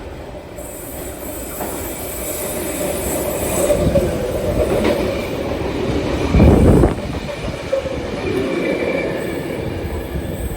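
Sydney Trains electric suburban train moving along a station platform: steady rumble and rush of wheels on rail with faint wheel squeal, swelling to its loudest briefly about six and a half seconds in.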